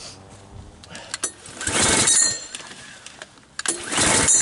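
Lawn mower's Predator engine being cranked by hand on its recoil pull-starter: two hard pulls about two seconds apart, each a short burst of cranking, without the engine catching.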